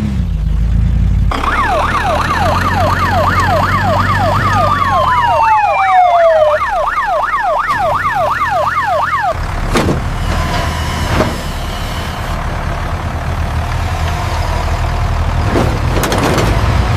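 A fast yelping emergency-vehicle siren that swoops up and down about three times a second, over a steady low engine rumble. A single tone glides downward midway through, and the siren stops about nine seconds in while the rumble carries on.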